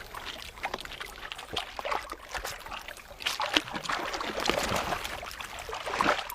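Water splashing and trickling in irregular wet crackles.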